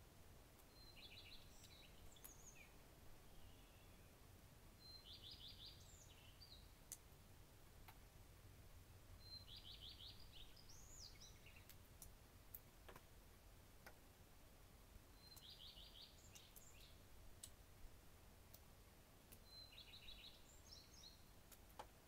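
A songbird singing faintly, the same short phrase five times about every four to five seconds: a fast trill of repeated notes ending in a few higher notes. A few faint clicks are scattered between the phrases.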